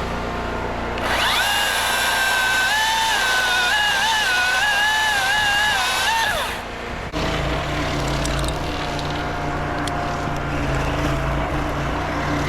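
Cordless electric chainsaw spinning up, cutting with its whine wavering in pitch under load for about five seconds, then spinning down. After it stops, a steady engine drone carries on.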